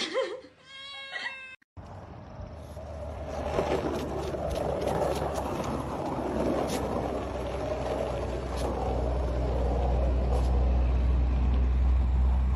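A cat meowing, drawn-out calls that end about a second and a half in. After that comes a steady low rumble with a noisy hiss over it, slowly growing louder.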